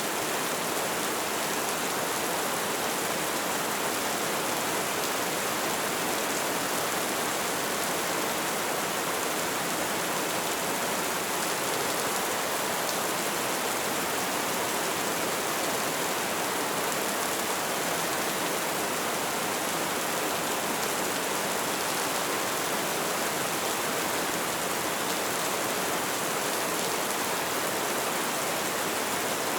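Light rain falling, a steady even patter with no gusts, breaks or single loud drops.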